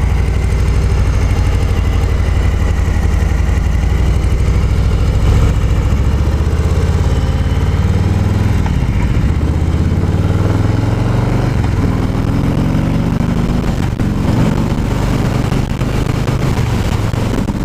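2018 Harley-Davidson Low Rider's Milwaukee-Eight 107 V-twin running under way through its dual exhaust, heard from the saddle with wind on the microphone. About halfway through the engine pitch drops and then climbs again as the bike pulls.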